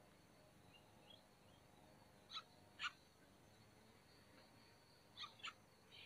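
Near silence broken by four short sharp bird chips, in two quick pairs about half a second apart: one pair about two and a half seconds in, the other near the end.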